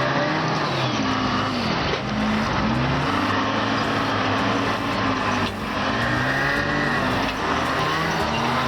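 Vehicle engine revving up and down again and again, its pitch rising and falling in repeated swells, over steady mechanical noise.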